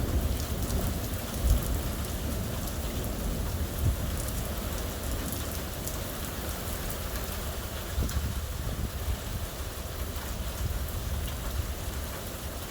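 Steady rain falling in a thunderstorm, with many small drop ticks. A low rumble of thunder dies away at the start.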